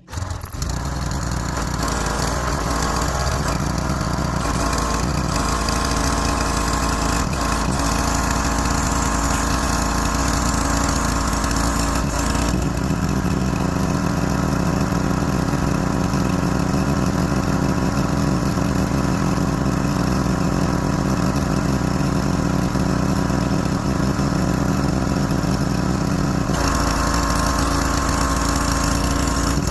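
Small gas-engine pressure washer running steadily, its tone shifting about twelve seconds in and again near the end as the spray load changes.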